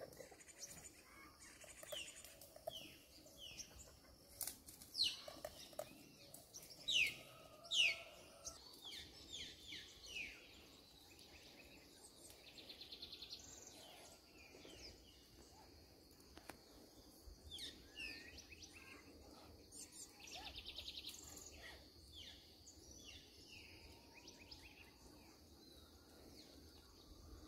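Wild birds chirping faintly: many short, high, falling chirps, repeated every second or so and clearest in the first third, over a faint steady high hiss.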